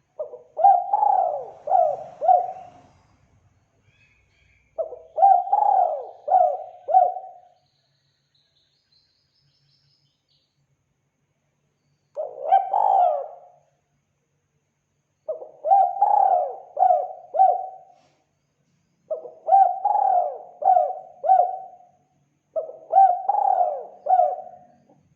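Spotted dove cooing: six phrases of three or four low coos each, separated by pauses of one to four seconds, the fourth phrase shorter than the rest.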